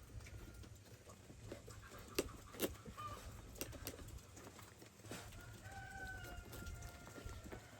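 Chickens calling faintly: a short call about three seconds in, then a longer held call from about five seconds in, among scattered clicks and knocks.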